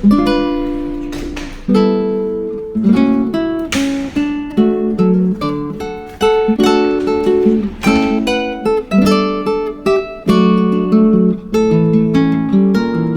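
Background music: acoustic guitar strummed and plucked in a steady chord pattern.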